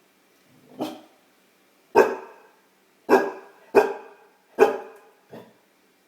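Great Dane puppy barking: six short barks spaced roughly a second apart, the first and last softer than the four in between.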